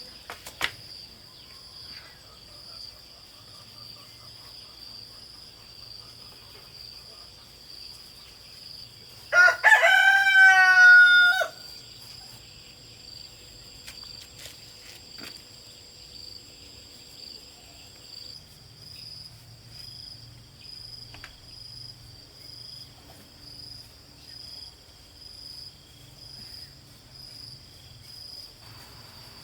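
A rooster crows once, loudly, a single call of about two seconds near the middle. A high insect trill pulses steadily underneath throughout.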